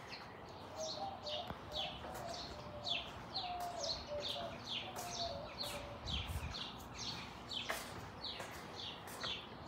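A bird chirping over and over: short, falling chirps at about three a second.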